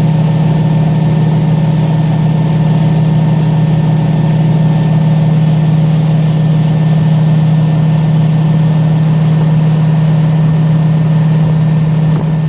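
Boat engine running at a steady speed, heard from on board: a loud, even drone with a strong low hum that eases slightly near the end.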